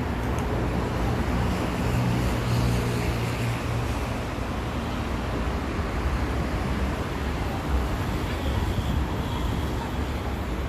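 Steady road traffic noise, with a low engine hum standing out in the first few seconds.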